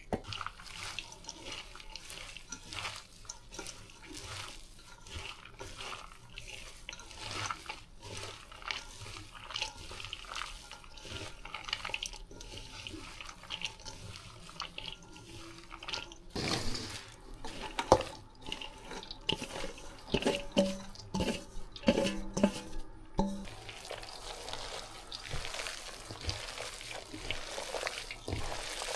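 Water running and splashing at a kitchen sink, with scattered clinks and knocks of things being handled, busiest in the middle of the stretch.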